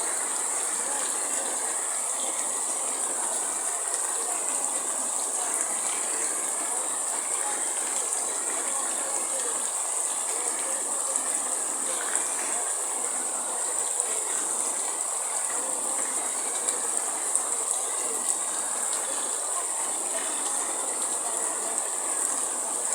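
Heavy rain falling steadily: a dense, even hiss with a few small louder spatters here and there.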